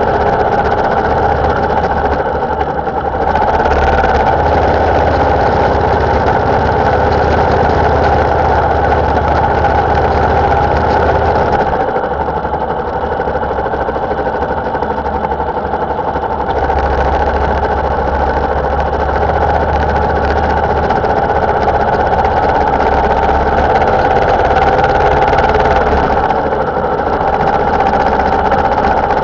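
Motorcycle engine running steadily while riding. Its low rumble eases off about twelve seconds in and comes back a few seconds later.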